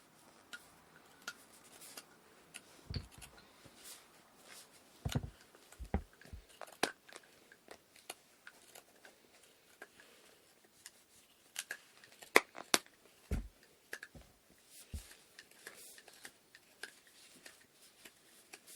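Wooden inkle loom parts being handled: scattered light clicks and taps, with several soft low thumps and one sharp click about two-thirds of the way through.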